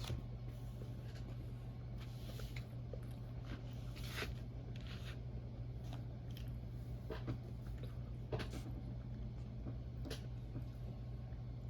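Close-miked mouth sounds of someone eating pancakes: scattered soft wet clicks and smacks of chewing, a few seconds apart, over a steady low hum.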